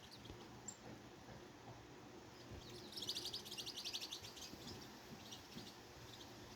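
Songbird singing a rapid trill of high, evenly spaced notes about three seconds in, with a few faint chirps before and after.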